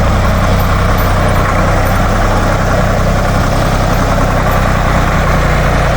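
Ditch Witch trencher-backhoe's air-cooled Deutz diesel engine running at a steady speed, with no change in pitch or level.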